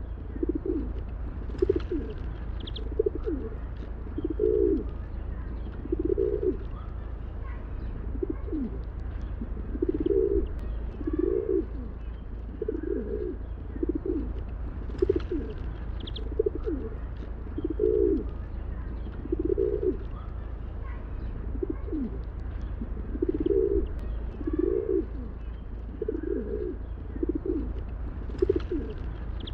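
Feral pigeons cooing over and over, low rolling coos coming about once a second, with a few faint higher chirps now and then over a steady low hum.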